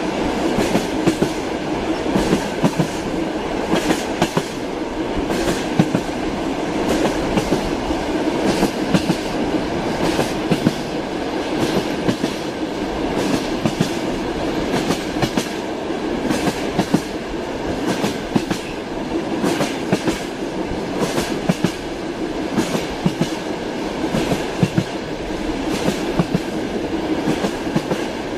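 Train wheels clattering over rail joints: a steady running rumble with sharp clicks every half second to a second, the clickety-clack of a moving train.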